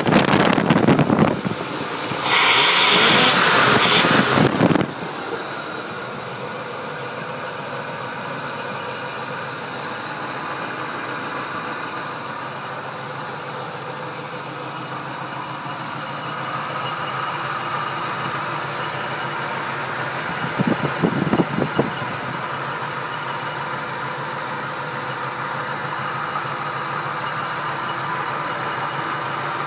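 1973 Oldsmobile Cutlass Colonnade engine idling steadily, with the air cleaner off its four-barrel carburetor. A loud rushing noise lies over it for about the first five seconds, with a short break, and a few brief bumps come about two-thirds of the way in.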